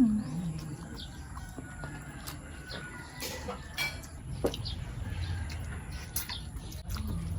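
Backyard bird sounds: chickens clucking and small birds chirping, over a low steady background rumble. One short, loud call comes right at the start.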